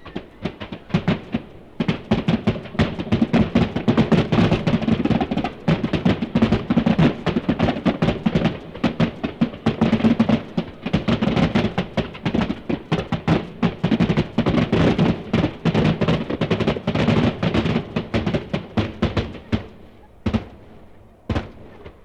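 Fireworks display finale: a dense, rapid barrage of bangs and crackles that thins out near the end into a few separate booms.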